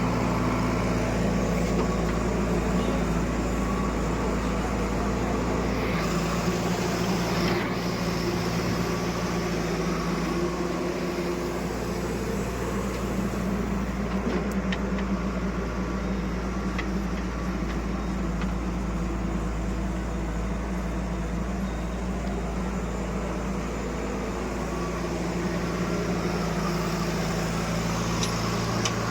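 Heavy diesel engine running steadily at a low, even pitch, with small shifts in its note.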